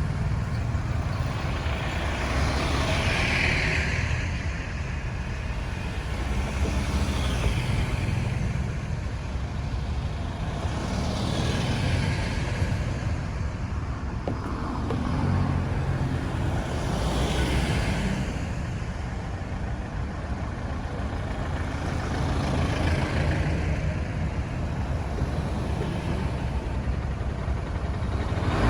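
Road traffic, with motor vehicles going past one after another and a swell of engine and tyre noise every few seconds.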